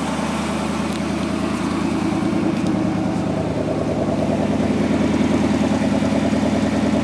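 A 1962 Oldsmobile Starfire's V8 idling steadily and smoothly, with an even pulse, a little louder from about halfway.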